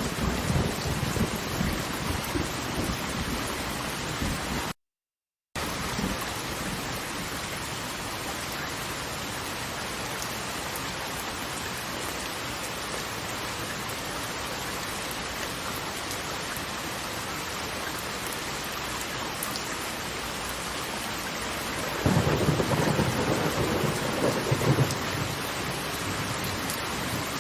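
Steady rushing water noise with deep rumbling swells near the start and again late on. The whole track cuts out completely for under a second about five seconds in.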